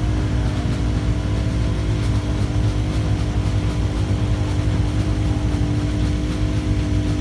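A rally car's engine idling steadily, with no revving.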